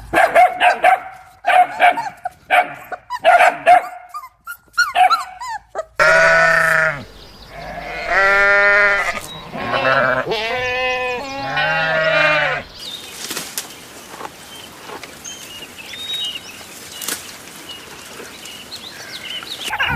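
Goats bleating: several long, quavering bleats in the middle stretch. They follow a run of about six short, evenly repeated animal calls, and give way to a quieter stretch near the end with only faint calls.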